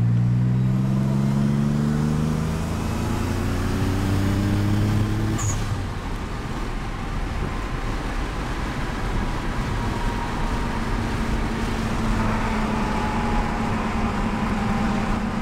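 Twin-turbo VG30DETT V6 of a 1990 Nissan 300ZX with an HKS catback exhaust, heard from inside the cabin, pulling under acceleration with its note slowly rising. About five seconds in it breaks off with a short hiss as the throttle lifts. After that the car cruises with a steady low drone and road noise.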